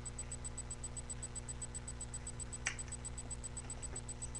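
A sheet of paper being folded, giving one sharp crackle about two and a half seconds in, over a steady electrical hum and hiss with fast, even ticking from the webcam microphone.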